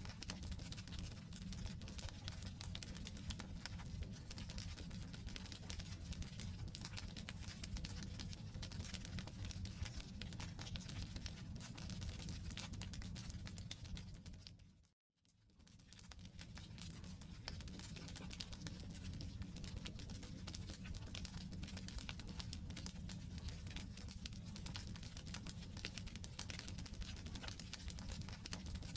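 Wood campfire burning, with dense crackling and popping of the logs over a low rumble of flames. About fifteen seconds in, the sound fades out to silence for a moment and fades back in.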